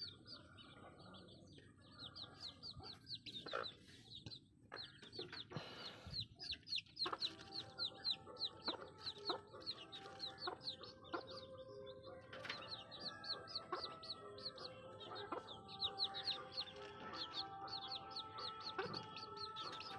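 Desi chicks peeping: a steady run of quick, high chirps that fall in pitch, several a second.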